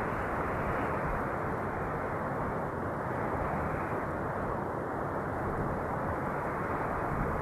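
Wind blowing as a steady, dull rush, swelling and easing slowly.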